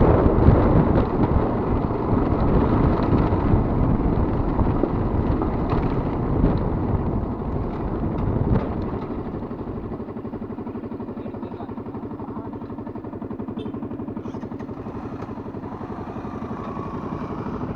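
Motorcycle engine running on the move, with wind noise on the microphone. About nine seconds in, the sound drops to a quieter, steady engine note as the bike slows.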